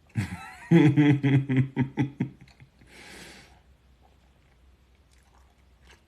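A man laughing in a quick run of short voiced pulses for about two seconds, followed about a second later by a short breathy exhale.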